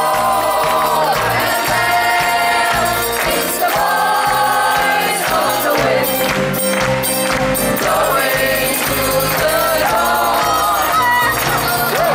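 Live band playing a song, with several women singing together over a steady beat and a tambourine.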